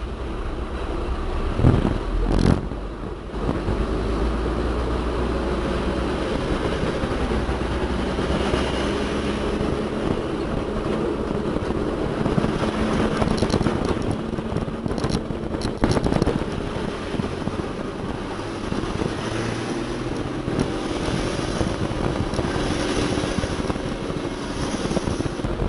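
Heavy diesel machinery running steadily with a low rumble, with a few sharp knocks about two seconds in and again around the middle.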